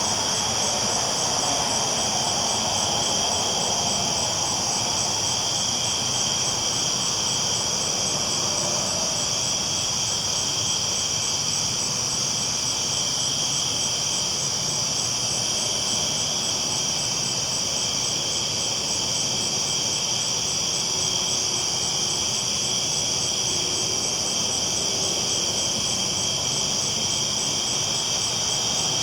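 Steady rolling noise of a train running along the tracks, unchanging throughout, with a steady high-pitched hiss over it.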